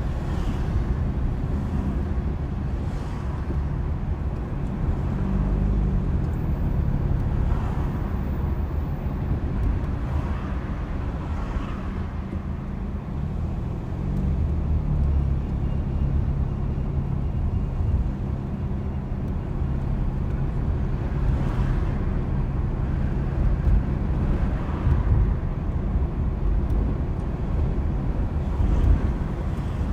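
A car being driven: engine hum and heavy low road rumble, the engine note shifting up and down a few times as speed changes.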